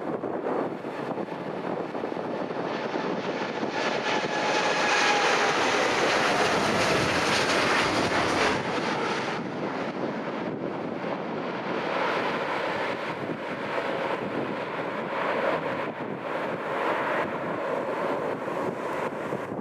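An airliner passing the runway, its engine noise building to a peak about four to nine seconds in with a whine that falls slightly in pitch, then fading into wind on the microphone.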